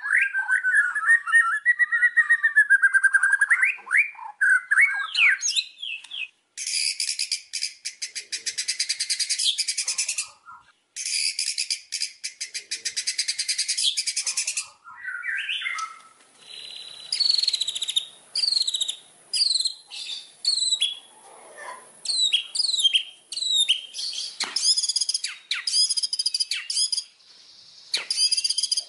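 White-rumped shama singing a varied song. It opens with a wavering whistled phrase, then gives two long, rapid rattling trills of about four seconds each, then a run of quick rising and falling whistled notes.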